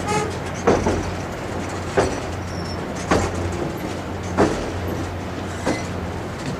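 Alaska Railroad passenger train rolling along, heard from an open car platform: a steady low rumble with a sharp wheel clack about every second and a quarter.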